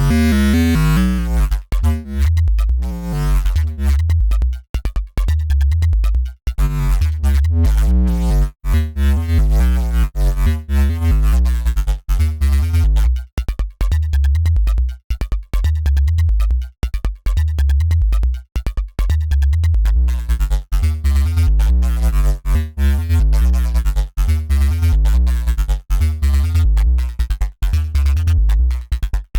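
Dirty FM synth bass riff built in Bitwig's Polygrid, looping at about 140 BPM: a heavy low bass line chopped into short repeating notes with brief gaps between them.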